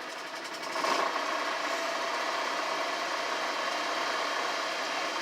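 RV onboard generator engine running cold just after starting, not yet steadied out; its choke doesn't work. A steady engine hum, a little louder from about a second in.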